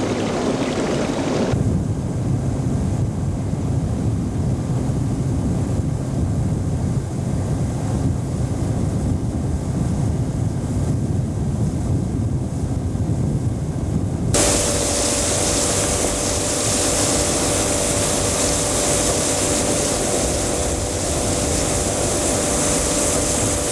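A boat motor running, with wind rumbling on the microphone. About fourteen seconds in the sound changes abruptly to a brighter, hissier motor noise with a steady hum.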